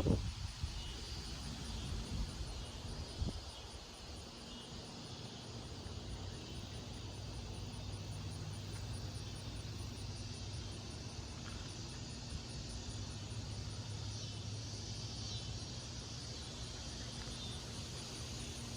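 A steady low mechanical hum, like a distant engine, with faint insect chirring above it.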